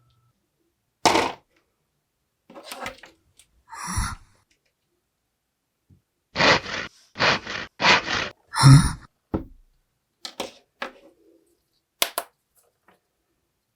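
Kinetic sand being pressed and cut with plastic toy tools: a string of short crunchy scrapes, four of them in quick succession near the middle, followed by a few sharp clicks.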